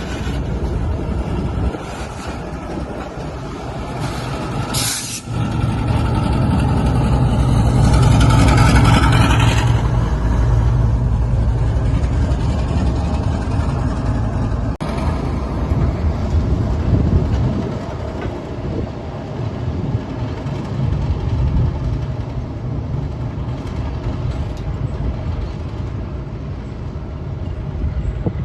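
Diesel-electric freight locomotives running, a deep steady engine rumble that swells to its loudest about eight to ten seconds in, with a short hiss about five seconds in.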